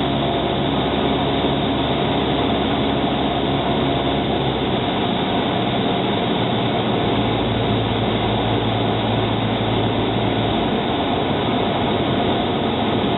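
Light aircraft's engine and propeller droning steadily in the cockpit on the landing approach, the engine note shifting about five seconds in and again near the end.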